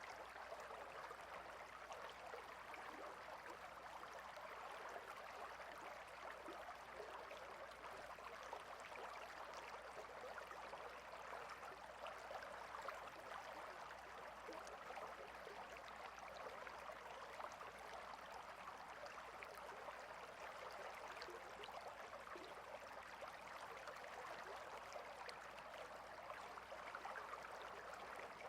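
Water of a small stream running over stones, a steady babble without pauses.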